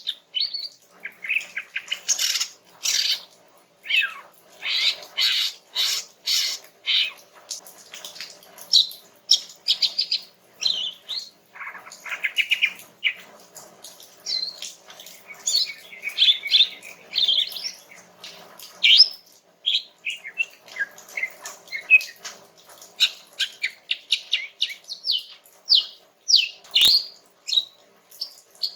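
Female green leafbird (cucak ijo) calling in a relaxed stream of short chirps and whistled notes, one after another with brief gaps. This is the female call used to draw males to answer.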